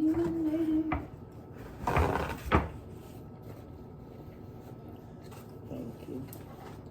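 A short held hum that stops about a second in, then a click, and a brief scrape ending in a sharp snap about two and a half seconds in: takeout food containers being handled and passed at the table.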